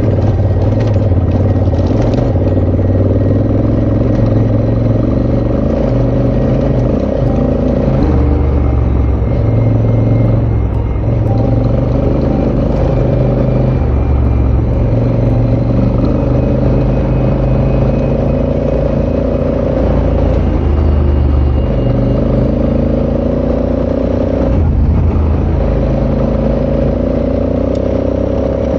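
Motorcycle engine running steadily under way, its note shifting every few seconds as the rider changes throttle or gear.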